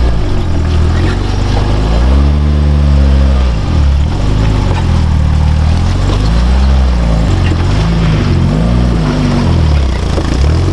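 Off-road truck's engine revving up and down several times as it is driven over rough, rutted ground.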